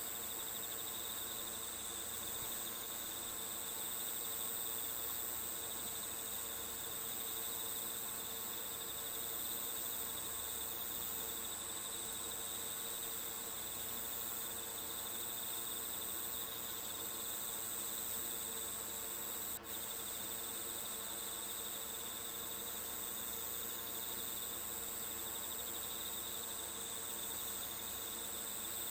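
Steady chorus of crickets chirring, with one momentary break about twenty seconds in.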